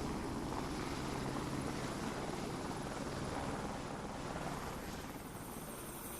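Steady low rumbling noise, easing slightly toward the end, of the kind an engine or aircraft makes.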